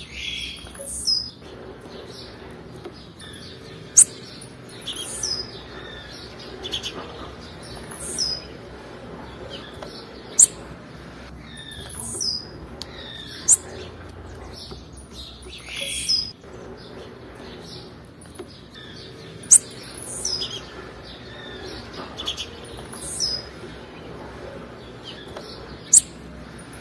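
Blue-black grassquit (tiziu) calling: short, high chirps that slide downward, repeated every second or two, with a sharp, very high tick standing out about five times.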